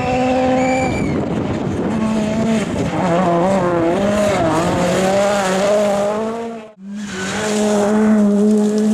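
Rally car engine running hard at high revs, its pitch wavering up and down as the throttle is worked. The sound drops out briefly about two-thirds of the way through, then a steady high-revving engine note returns.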